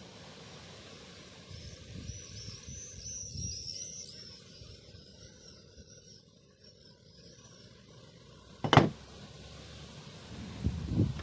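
Soft handling thumps and a run of high chirps, then a single sharp knock near the end, as of a tool or axe part set down or struck during the restoration work.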